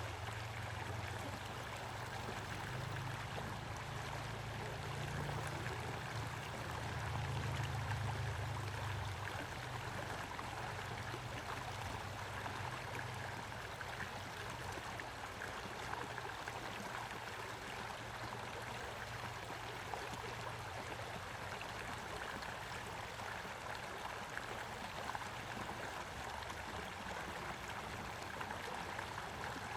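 Stream flowing steadily with an even rushing and babbling. A low rumble runs beneath it for the first dozen seconds, swelling a little around the eighth second before fading.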